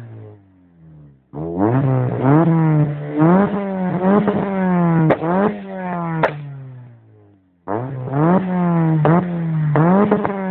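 Toyota Corolla G6's engine revved through a carbon fiber exhaust in quick repeated throttle blips, the revs climbing and dropping about once a second, in two runs with a short lull between. A few sharp pops come from the exhaust as the revs fall, the backfires that throw the flames.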